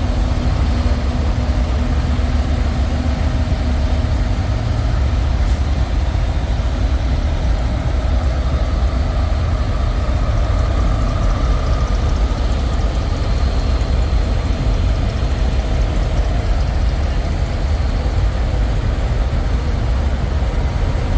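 Semi-truck diesel engine idling: a steady low rumble that neither rises nor falls.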